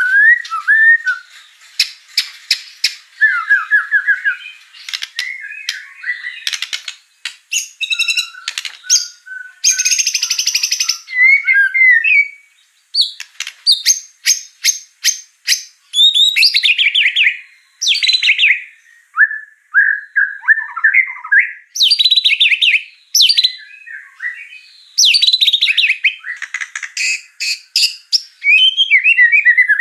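White-rumped shama (murai batu) singing a long, varied song full of mimicked phrases: clear whistles, fast rattling trills, and a harsh buzzy rattle about ten seconds in, delivered in bursts with short pauses.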